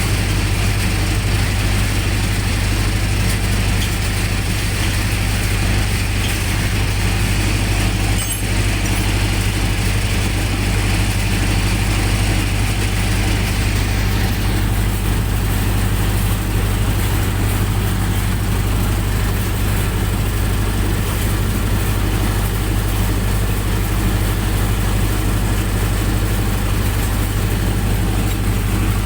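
Generator set engine running steadily at a constant speed, a deep even hum with a hiss over it.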